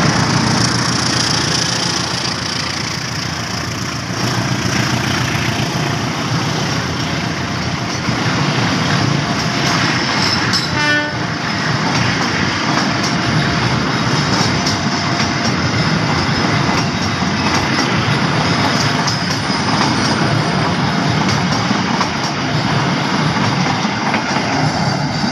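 A long passenger train's coaches passing at speed, a steady loud rush and rattle of wheels on the rails with rapid clicking over the joints. About eleven seconds in comes one short horn toot.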